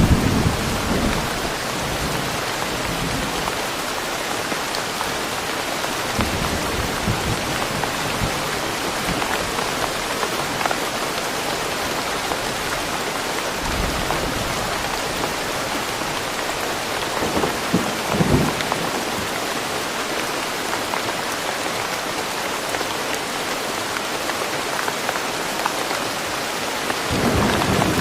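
Steady, even rain falling in woodland, with a few short low rumbles rising out of it: near the start, about a third of the way in, around the middle and near the end.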